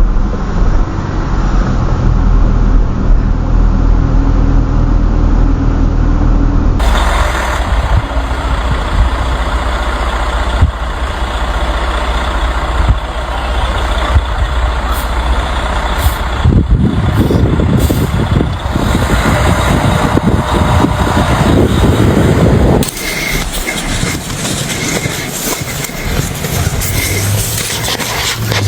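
Road vehicle sounds, a heavy truck among them, with a strong low rumble. The sound changes abruptly about seven, sixteen and twenty-three seconds in, as one clip cuts to the next.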